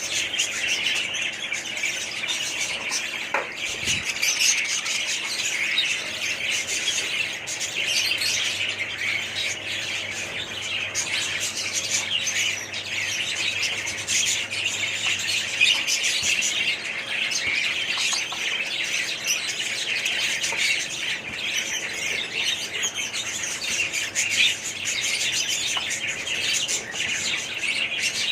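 Many caged small parrots chattering and chirping at once in a dense, continuous din, with occasional louder squawks.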